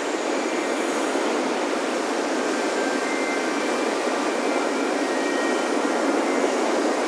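Steady wash of ocean surf on a beach, with wind chimes ringing faintly in thin, high tones that come and go.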